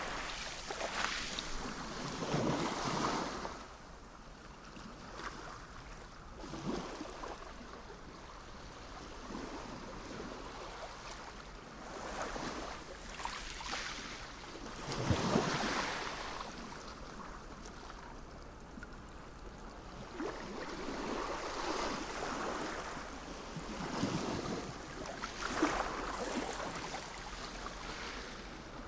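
Sea waves breaking and washing in, rising and falling in several surges. The loudest surge comes about halfway through.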